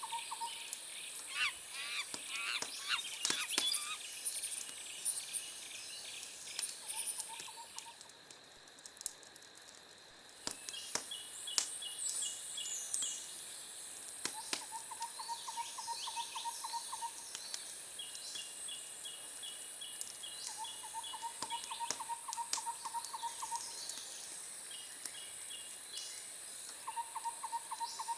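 Outdoor nature ambience: birds chirping, a steady high-pitched insect buzz, and short pulsed trills that recur every few seconds, with scattered sharp clicks.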